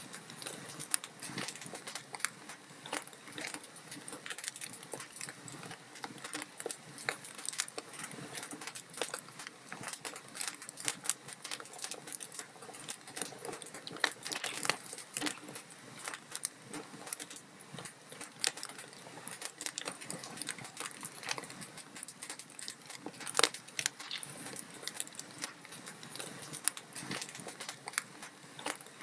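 Log fire crackling in a fireplace: a steady, irregular stream of small pops and snaps from the burning wood, with a few sharper, louder pops, the loudest about 23 seconds in.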